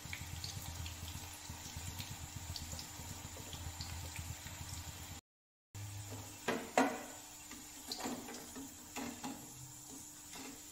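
Cauliflower fritters sizzling in hot oil in a steel kadhai. After a short break, a steel slotted spoon clinks against the kadhai several times as the fried pieces are lifted out and the oil is stirred.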